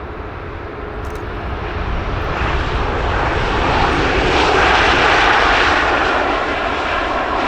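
Airliner's engines passing by, growing louder over the first few seconds, loudest about five seconds in, then easing slightly.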